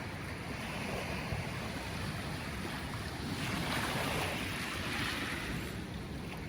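Sea surf washing on a beach, a wave swelling in and hissing up the shore about halfway through, with wind rumbling on the microphone.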